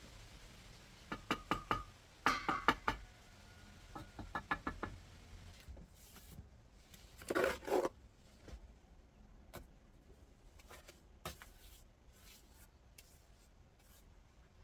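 Clusters of light, sharp knocks and taps, with a short scraping sound about seven and a half seconds in and a few scattered single clicks after it.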